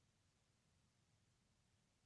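Near silence: only faint steady hiss and low hum.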